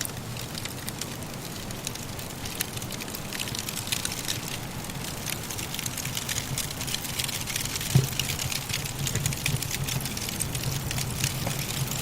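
Wood fire crackling in a fireplace, with many small pops and one sharper, louder pop about eight seconds in, over a steady low rush of blizzard wind.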